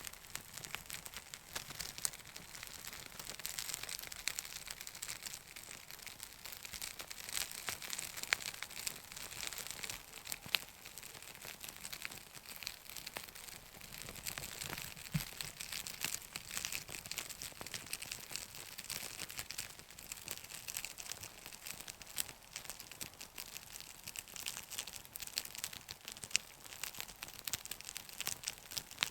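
Birch bark burning in a small fire, crackling steadily with a dense run of small sharp ticks.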